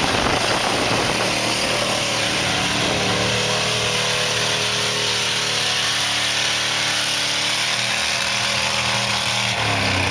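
Ford F-150 pickup engine running steadily.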